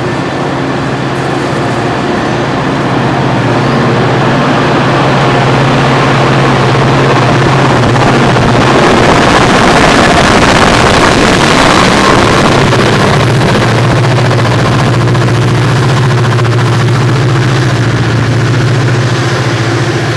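Diesel-powered train passing close by: a steady low engine drone under a loud wash of wheel and rail noise that swells to its loudest about halfway through. A faint high thin tone joins in the second half.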